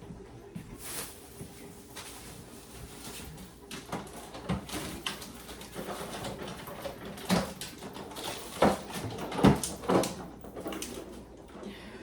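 Groceries and kitchen items being handled and set down: scattered knocks and clunks, sparse at first and louder and more frequent in the second half.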